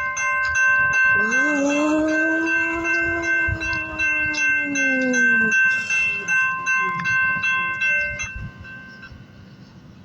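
Railroad grade-crossing warning bell ringing in quick, even strikes, stopping about eight seconds in. A single long horn blast of about four seconds starts about a second in, its pitch rising slightly and then sagging as it ends.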